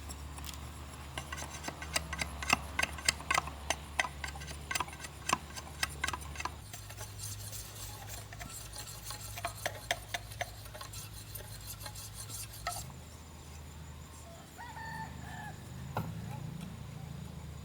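Hand tools working bamboo: a quick run of light clicks and knocks for the first few seconds, then sparser ticks and quieter rubbing and scraping.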